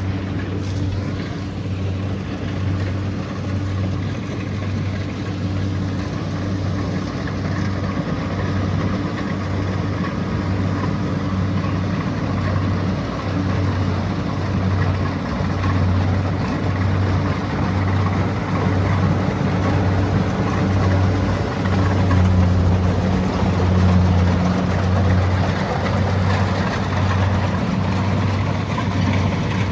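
Kubota DC70 Pro combine harvester's diesel engine running steadily under harvesting load, with a deep hum that throbs about once a second. It swells slightly louder for a few seconds about three-quarters of the way through.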